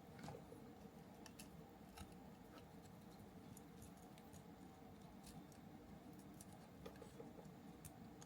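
Near silence with faint, scattered small clicks and taps of small model-kit parts and tools being handled during assembly, over a faint steady hum.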